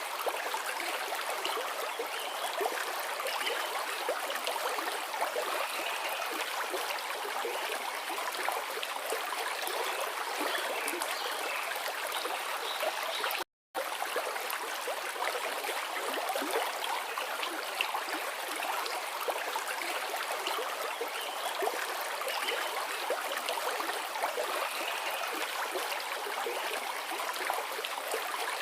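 Forest river flowing, a steady rush and burble of water. The sound drops out completely for a split second about halfway through.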